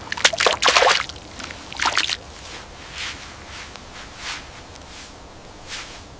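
Wet squelching and sloshing footsteps through mud or slush: two loud splashy steps in the first two seconds, then softer steps about every second and a half.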